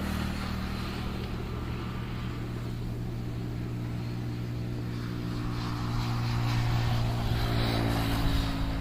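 Motorboat engine running steadily with an even low hum, getting a little louder about six seconds in.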